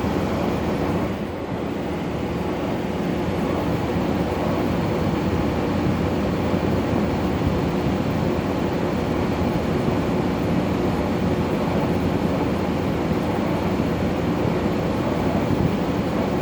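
LG 12,000 BTU air conditioner running: a steady rush of the fan blowing air, with a low hum from the compressor.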